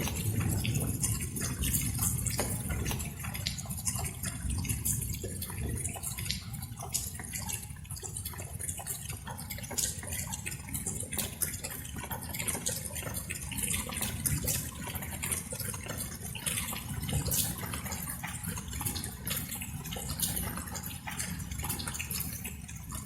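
Light rain, with many separate drops dripping and pattering over a steady low rumble.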